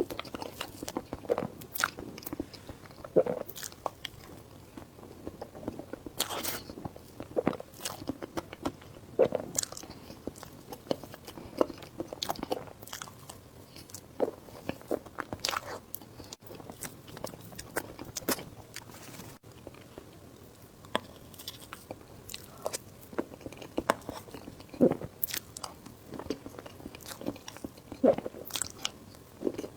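Close-miked mukbang eating sounds: a person biting and chewing food, with irregular crunchy bites and short clicks.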